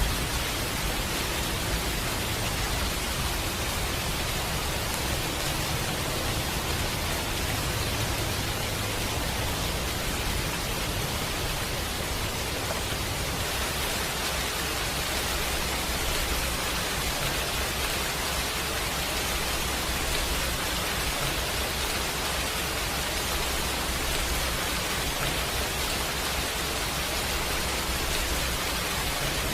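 Steady heavy rain: an even, unbroken hiss with a low rumble underneath.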